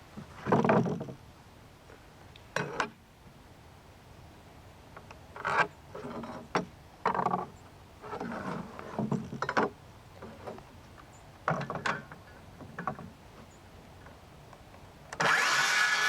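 Wooden boards being handled, with a string of irregular knocks and scrapes, then a power tool starts near the end and runs steadily and loudly.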